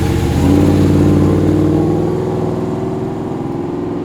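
A car engine revving up and accelerating away, its pitch rising about half a second in and then holding as the sound slowly fades.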